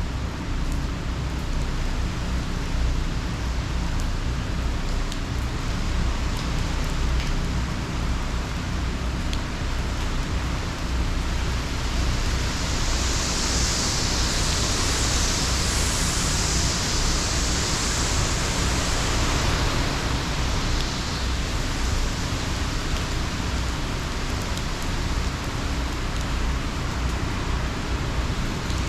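Heavy hurricane rain and wind, a steady rushing hiss over a low rumble; the hiss grows brighter for several seconds midway, then eases.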